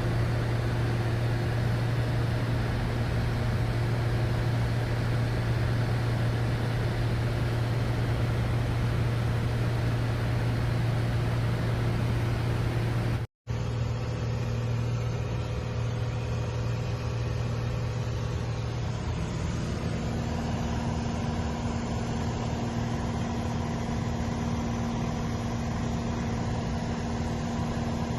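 Helicopter running in flight with a steady low drone. The sound cuts out abruptly for a moment about thirteen seconds in, then the same drone carries on.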